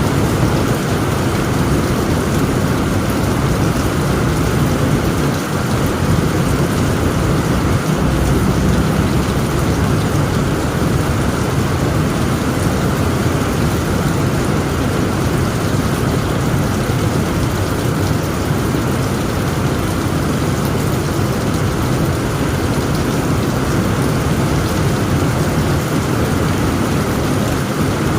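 Heavy rain pouring steadily on a tent roof, with a continuous low rumble underneath and no distinct thunderclaps.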